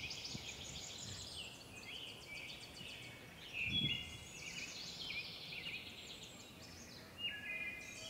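Small birds chirping and trilling over quiet outdoor background noise, with a soft thump about four seconds in.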